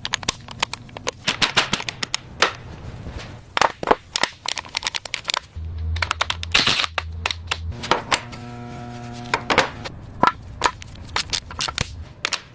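Many sharp metallic clicks and clinks from tools and engine parts being handled during reassembly, with a low hum about halfway through and a short ringing tone a little after.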